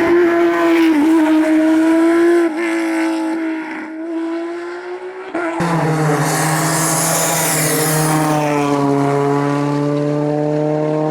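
Rally car engine at high revs, then dropping back and fading about two and a half seconds in. About five and a half seconds in the sound switches abruptly to another rally car's engine at high revs, its pitch sinking slowly near the end.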